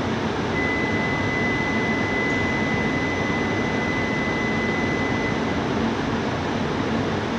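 Steady hum and hiss of a stationary Tohoku Shinkansen train standing at the platform, its air-conditioning and auxiliary equipment running. A thin, high, steady whine starts about half a second in and stops after about five seconds.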